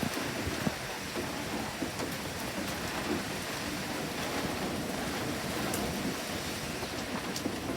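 Heavy typhoon rain pouring down steadily, a dense rushing hiss with a few sharp taps of drops scattered through it.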